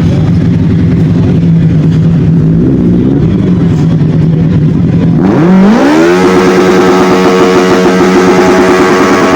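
Superbike inline-four engine running at a steady low pitch, then revved hard about five seconds in. The pitch climbs for about a second and then holds high and loud.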